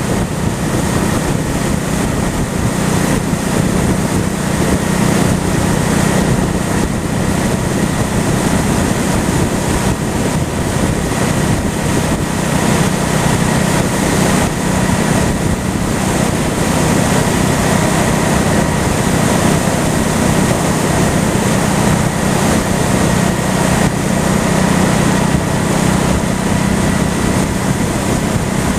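Honda Shadow V-twin motorcycle engine running at a steady cruise, under heavy rushing wind noise on the microphone.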